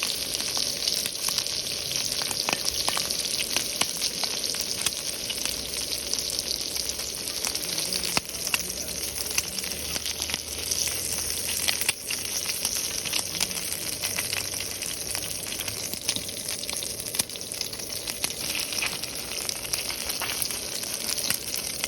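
Food sizzling and crackling steadily in a hot pan.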